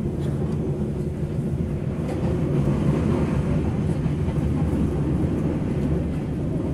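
Steady low rumble of the Mutiara Timur passenger train heard from inside its carriage as it runs along the track.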